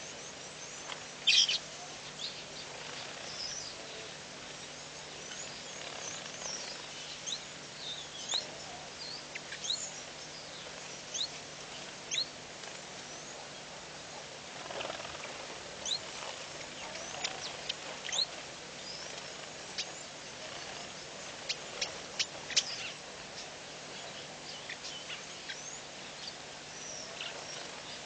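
Small wild birds chirping: brief high calls and quick rising and falling whistles scattered throughout, loudest about a second in and in a cluster of sharp chirps near the end, over a steady hiss and a faint low hum.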